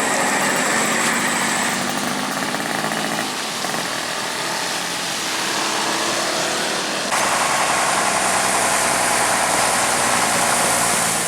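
A motor vehicle engine running, with a steady wash of noise; it grows louder about seven seconds in.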